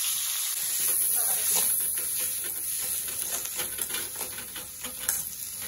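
Chopped onions and tomatoes sizzling in hot oil in an aluminium kadai, the hiss slowly dying down, while a perforated steel ladle stirs them and clicks and scrapes against the pan.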